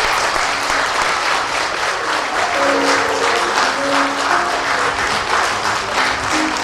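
Audience applauding in a hall, with instrumental music playing along; the music's notes come through more clearly about two and a half seconds in.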